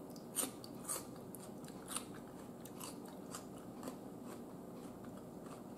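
A person chewing food, quietly, with short crisp crunches at irregular intervals.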